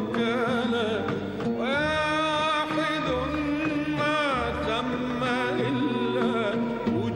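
Arabic devotional song: a singer holds long, wavering, ornamented notes over steady instrumental accompaniment in a Middle Eastern mode.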